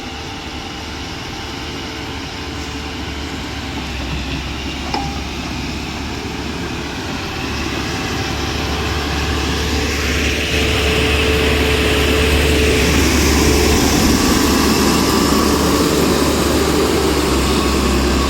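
Tractor engine running steadily, growing louder over the first ten seconds or so and then holding.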